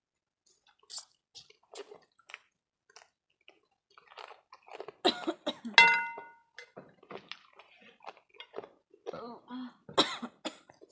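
Close-up eating sounds: chewing and lip-smacking with many small scattered clicks. About six seconds in comes a louder clink of tableware that rings briefly.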